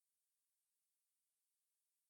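Near silence: only faint, steady hiss.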